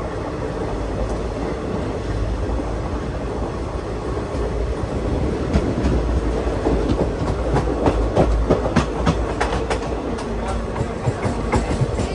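Passenger train coaches running along the track, heard from the open doorway: a steady rumble, with wheels clattering over the rail joints. The clatter comes thicker and louder from about halfway through.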